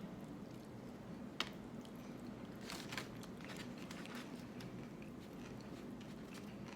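A person biting into and chewing a steak pupusa topped with cabbage. There is a sharp click about a second and a half in, then a short run of crisp crunches near the middle.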